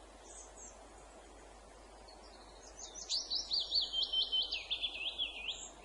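A songbird sings one fast phrase of quickly repeated sweeping notes, starting about three seconds in, after a faint short high note near the start, over a steady background hiss.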